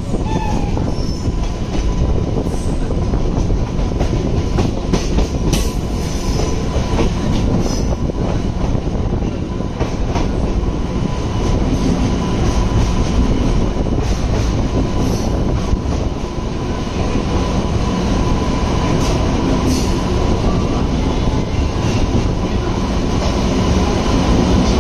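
Indian Railways express passenger coach running along the track, heard from its open door: a steady rumble of wheels on rail mixed with wind, broken by a few sharp clacks as the wheels cross rail joints.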